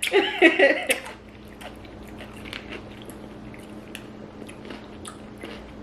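A person chewing a ranch-marinated pickle, with scattered soft crunches. A brief bit of voice opens it.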